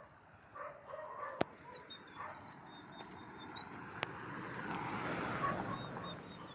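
A dog barking a few times in the first couple of seconds, then a car passing close by, its noise swelling and fading about five seconds in.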